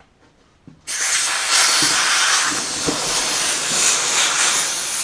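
Compressed air rushing out of a small portable air compressor's tank through its opened drain valve, purging condensed water. A loud, steady hiss starts suddenly about a second in.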